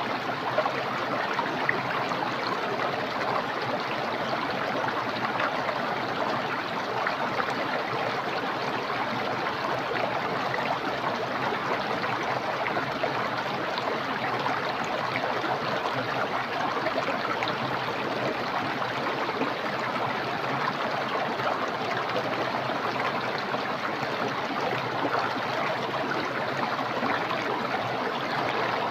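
A small, clear, fast-flowing stream rushing and gurgling steadily over rocks.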